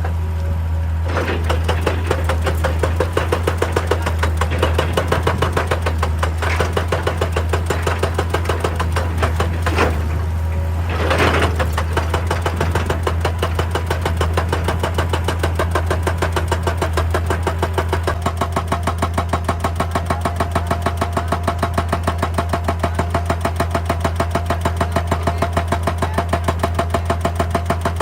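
Excavator diesel engine running, with a fast, even train of hammering blows typical of a hydraulic rock breaker working. About two-thirds of the way through, a steady whine joins in.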